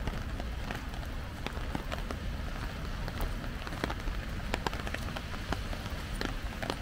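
Steady rain, with many scattered sharp taps of drops striking an umbrella close overhead, over a low steady rumble.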